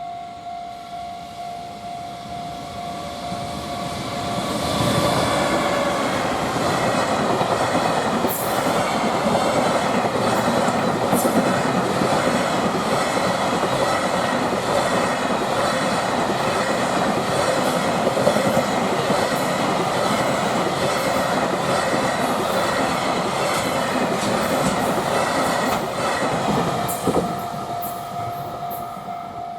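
Level-crossing warning bell ringing with a steady pulsing ding. About four seconds in, a freight train reaches the crossing and passes through for about twenty seconds, its wagons' wheels clattering on the rails and drowning out the bell. The bell is heard again near the end as the train clears.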